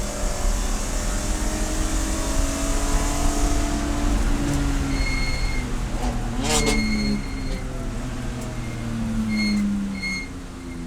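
Race car engine running under load, its pitch sagging and rising as it changes speed. About six and a half seconds in comes a brief sharp rattle, and short high squeal-like tones come and go in the second half.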